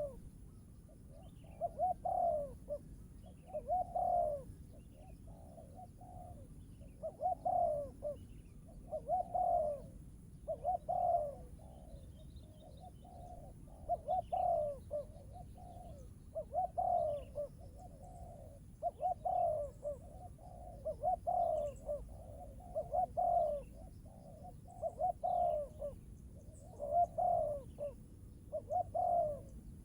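A dove cooing over and over, a phrase of several low coos about every two seconds, with faint chirps of small birds behind it.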